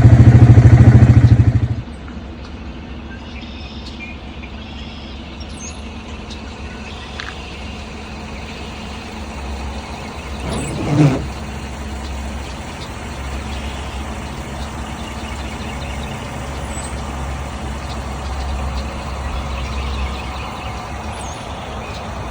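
Motor vehicle engine running loudly with a low pulsing drone for the first couple of seconds, then dropping to a steady low engine and road rumble. A single thump comes about eleven seconds in.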